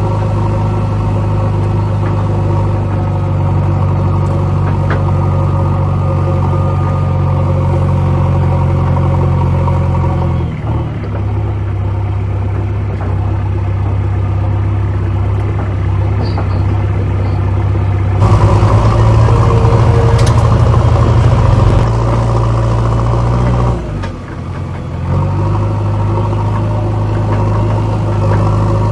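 Diesel tractor engine running steadily under load, getting louder and working harder for a few seconds past the middle, then easing off briefly before settling back to its even running note.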